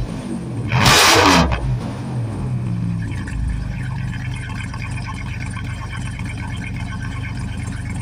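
2001 Dodge Ram van's V6 with a muffler delete (straight pipe, catalytic converter kept) blipped once about a second in. The revs fall back over the next couple of seconds, and the engine then idles steadily.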